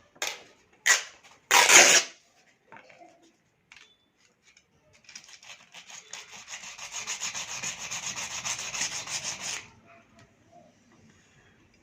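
Three short, sharp clacks of the opened plastic power strip being handled, then about four and a half seconds of rapid back-and-forth rubbing on its parts, like a quick scrub of the contacts.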